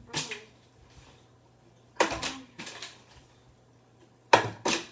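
Plastic water bottle being flipped onto a fridge top, knocking and clattering as it lands and falls: once just after the start, a rattling bout about two seconds in, and two quick knocks near the end.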